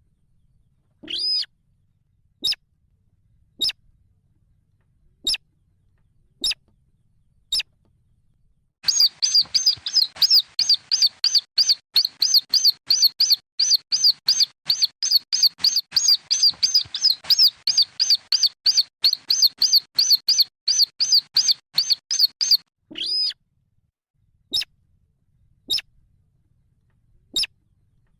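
Calls of slaty-breasted rail chicks: short, sharp, high chirps, first spaced a second or so apart, then a fast run of about five a second for some thirteen seconds, then single chirps again.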